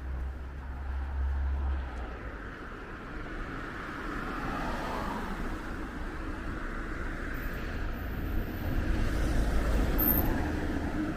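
Street traffic: a steady noise with cars going past, one passing about four seconds in.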